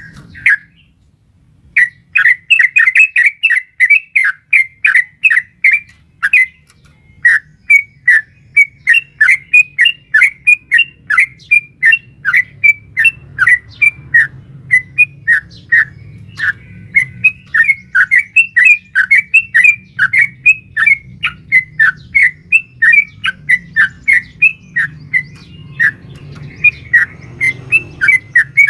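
Yellow-vented bulbul (trucukan) calling in a long, rapid run of short repeated chirping notes with a few brief pauses. The long run is the "ropel panjang" style that keepers play to provoke their own birds, given as a female calling a male.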